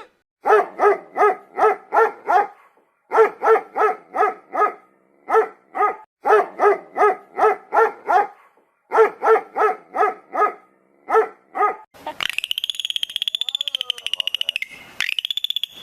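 An animal calling in quick runs of short, pitched barks or yelps, about three a second, in several bursts. About 12 seconds in, a different high-pitched, rapidly pulsing trill takes over.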